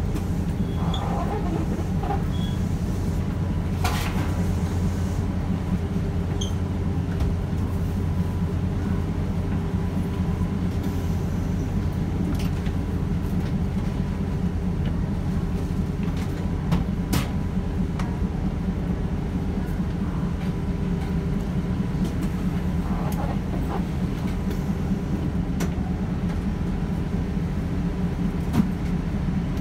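Steady low hum of a stopped passenger train's onboard machinery, heard from inside the carriage at the open door. It is unchanging throughout, with a faint steady whine above it and a few scattered clicks and knocks.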